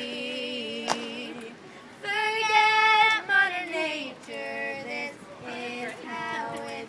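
Two girls singing long held notes together, with vibrato, the loudest note starting about two seconds in and sliding down in pitch near the four-second mark, followed by shorter sung notes.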